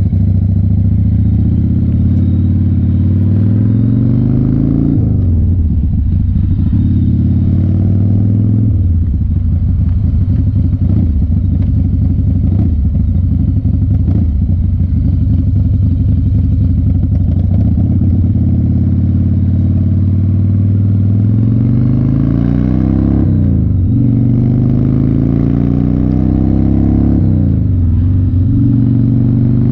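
1993 Harley-Davidson FXR's 1340 cc Evolution V-twin accelerating through the gears. Its pitch climbs and then drops at an upshift about five seconds in, holds fairly steady through the middle, then climbs and drops twice more near the end.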